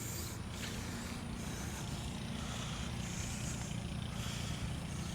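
Steady low hum with faint hiss over it.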